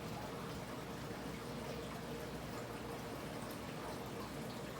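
Steady trickle of water circulating through an animal tank's filter, under a faint steady hum.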